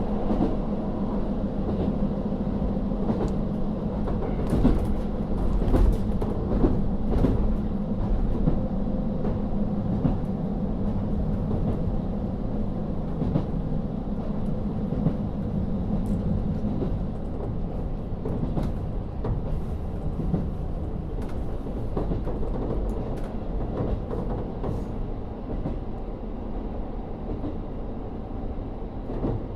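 Interior running sound of a JR Hokkaido KiHa 40 diesel railcar: its N-DMF13HZB diesel engine drones under the floor while the wheels knock and click over rail joints. About two-thirds of the way through, the engine note drops away and the rail and wheel noise carries on.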